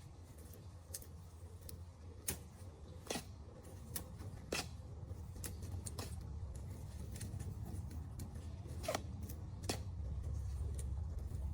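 Scattered sharp clicks at irregular intervals, about eight of them, over a steady low hum.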